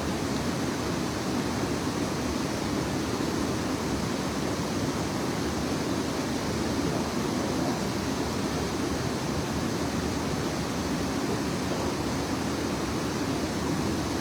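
Fast-flowing river water rushing steadily, an even noise that doesn't change.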